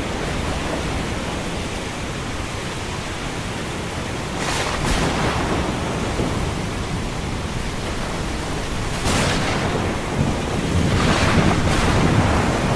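Thunderstorm over the sea: continuous rain and surf with low thunder rumbling. Waves break in swells about a third of the way in, two-thirds in, and near the end.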